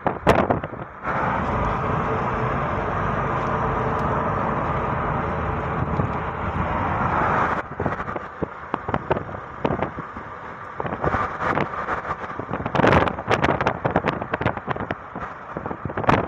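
Wind rushing and buffeting against the microphone over the noise of a moving car. A steady loud rush cuts off abruptly about halfway through, leaving choppy, irregular gusts.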